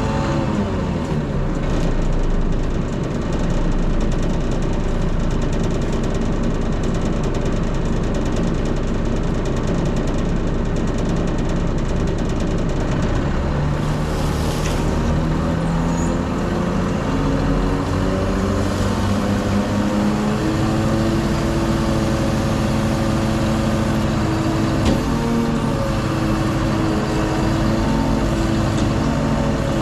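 Volvo FE 320 lorry's diesel engine running under way, a steady drone whose pitch drops and climbs a few times as engine speed changes.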